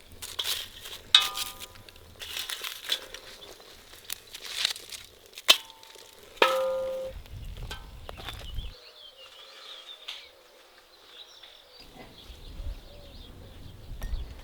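Crinkling and rustling with several sharp clinks, a few of them ringing briefly like metal cookware, during the first half; in the quieter second half small birds chirp.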